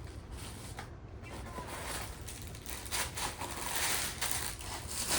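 Plastic packaging rustling and crinkling as the parcel's contents are handled, with a few short crackles in the second half.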